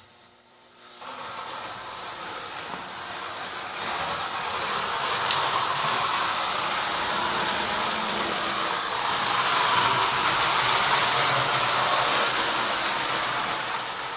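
Marx 1666 toy steam locomotive running on a model railroad layout: a steady rumble of its electric motor and wheels on metal track, getting louder over the first few seconds.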